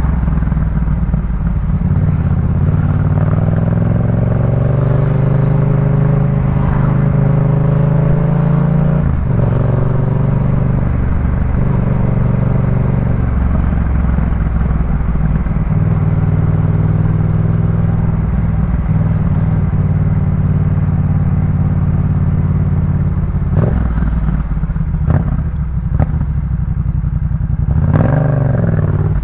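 2018 Yamaha MT-07's parallel-twin engine running loud through a Jeskap K4 full exhaust. The engine note climbs for several seconds, drops at a break about nine seconds in, climbs again and holds steady for a long stretch, then rises briefly near the end.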